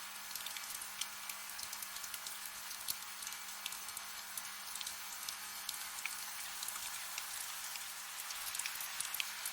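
Soft rain falling steadily: an even hiss with many small drops ticking through it.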